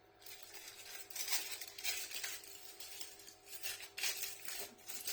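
Foil wrapper of a chocolate bar being unwrapped by hand, crinkling in irregular bursts.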